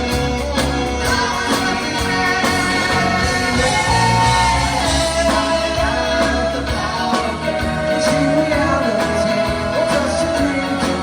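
Live band playing a 1967 pop song, with singers holding long notes over the instruments.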